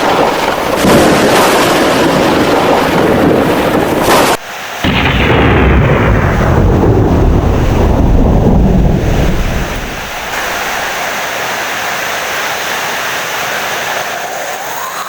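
Heavy rain, then after a sudden break about four seconds in, a long thunder rumble that sinks lower and fades out around ten seconds, leaving a steady rain hiss.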